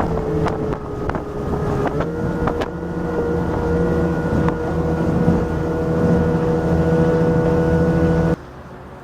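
A P1 Panther SuperStock speedboat's 250-horsepower Evinrude outboard running at speed, a steady engine tone that steps up slightly about two seconds in, with wind on the microphone. It cuts off suddenly near the end.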